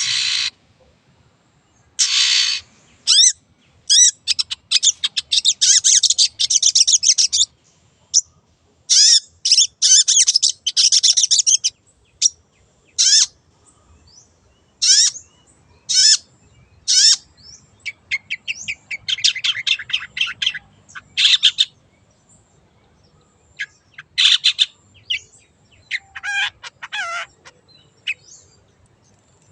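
Long-tailed shrike singing in quick, busy bursts of varied chattering phrases separated by short pauses, with harsh rasping calls at the start and about two seconds in.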